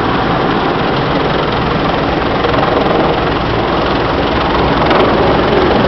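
Helicopter running loud and steady, its rotor and engine noise unbroken, getting a little louder about halfway through.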